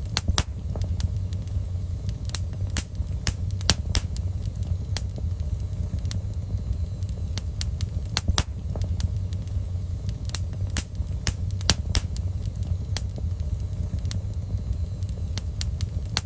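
Fire crackling in a fireplace: sharp pops and snaps come at irregular intervals over a steady low rumble.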